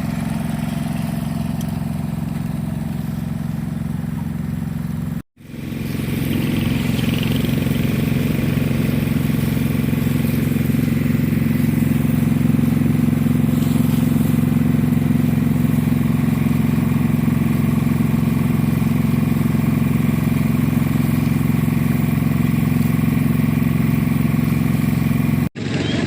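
Truck engine running steadily. The sound breaks off abruptly and briefly about five seconds in and again near the end, and it is louder after the first break.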